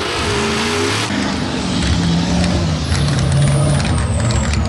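Diesel mud truck engines running and revving, their pitch rising and falling, with a thin high whistle sliding down in pitch in the second half.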